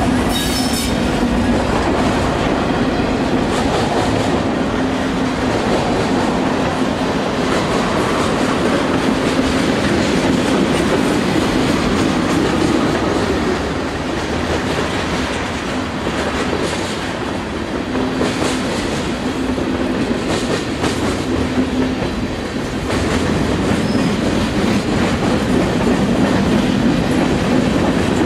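Freight train cars rolling past, wheels clattering over the rail joints with a steady rumble. There is a brief high wheel squeal about half a second in.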